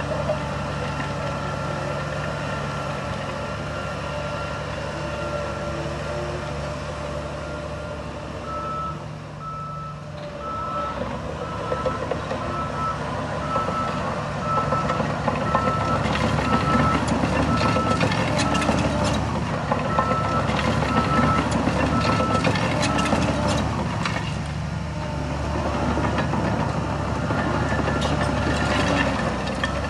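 Heavy diesel earthmoving machinery running, with its reversing alarm beeping evenly, a little under two beeps a second, from about eight seconds in until past the middle. Clattering, clanking knocks come in over the engine in the second half.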